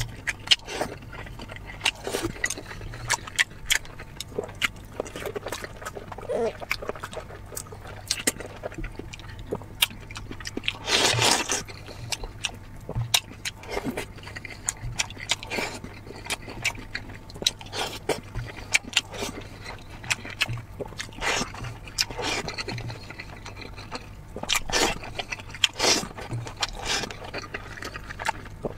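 Close-miked eating sounds of a man chewing boiled dumplings: wet mouth clicks and smacks in irregular bursts, with chopsticks tapping the bowl, over a steady low hum. About eleven seconds in there is a louder rush of noise lasting under a second.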